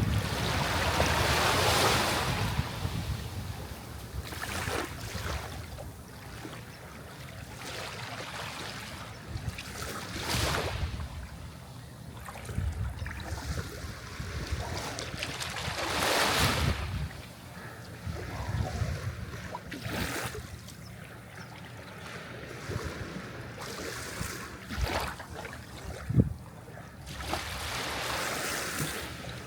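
Sea waves breaking and washing in: about five swells of surf, each rising and falling over a few seconds, with the largest at the start.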